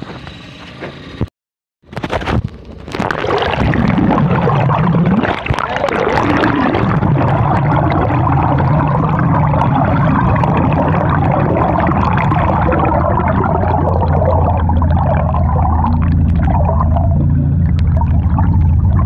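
Water heard from a submerged camera: muffled swirling and bubbling noise over a steady low rumble. It follows a few handling knocks and a brief cutout about a second or two in.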